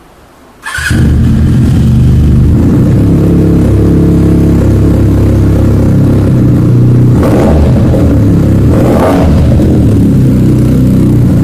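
Benelli TNT 300's parallel-twin engine running loud and close, cutting in abruptly under a second in, with two short rises in revs later on.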